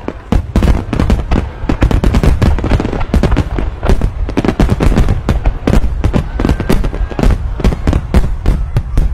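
Fireworks display: aerial shells bursting in rapid, overlapping succession, several loud bangs a second over a continuous low rumble.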